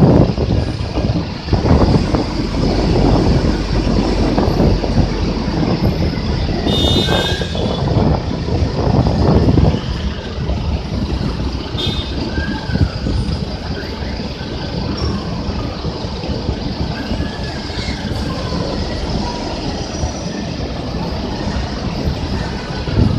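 Large city bus running close by, loud for about the first ten seconds and then easing to a steadier, quieter rumble, with a brief high squeal about seven seconds in.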